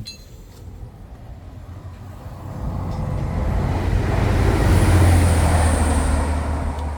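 A train passing on the railway line close by, a steady low hum with rushing noise that swells to its loudest about five seconds in and begins to fade near the end.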